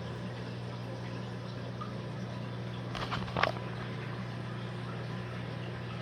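Steady low electrical hum, with a few short clicks a little after three seconds in.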